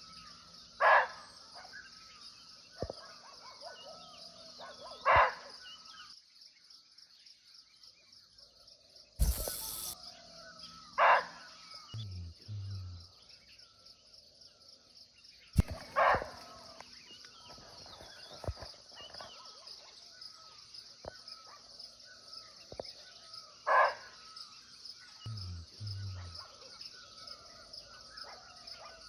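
Barking deer (muntjac) giving single short, loud barks, five in all, spaced several seconds apart, over a steady high drone of forest insects. About nine seconds in there is a brief loud rush of noise.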